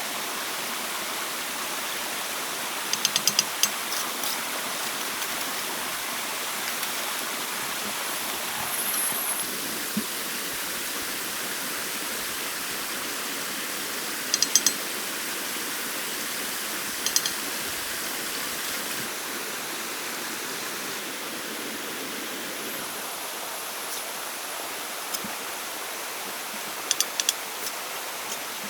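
Steady rush of flowing stream water, with four brief clusters of quick, sharp clicks scattered through it.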